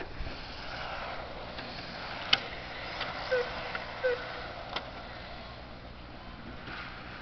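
Radio-controlled car running with a steady motor hum, a few sharp clicks and two short squeaks near the middle.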